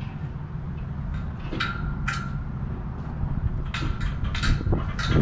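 Wind rumbling on the camera microphone, with a few short scraping or crunching noises, two about a third of the way in and a cluster near the end.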